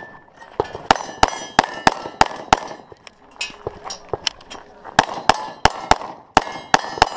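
Rapid pistol fire from a Gen4 Glock 34 9mm with a six-port compensated barrel, with steel plates ringing as they are hit. There is a quick string of about six shots, a pause of about two seconds, then another fast string.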